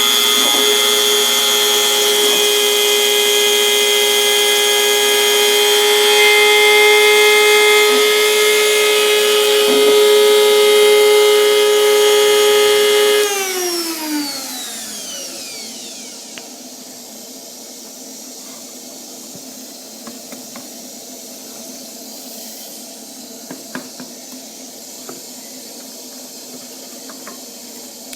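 Home-made CNC router's spindle running at a steady high speed as it cuts 4 mm plywood. About 13 seconds in it is switched off and winds down with a falling whine over two or three seconds, leaving a low background with a few faint clicks and knocks.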